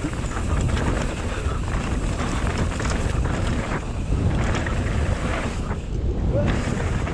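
Wind rushing over an action camera's microphone as a mountain bike rolls down a dirt trail, with short knocks and rattles from the bike over the bumps.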